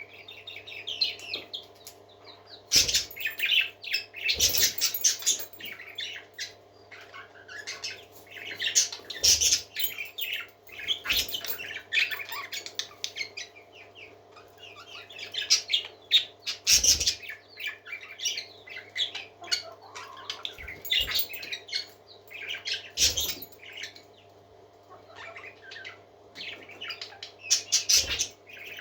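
Parakeets chirping and chattering in bursts, several birds at once, with short sharp knocks or wing flutters every few seconds over a steady low hum.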